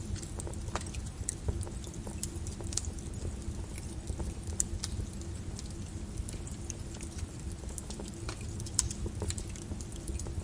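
Lava crackling: irregular sharp clicks and ticks from the cooling, breaking crust over a steady low rumble.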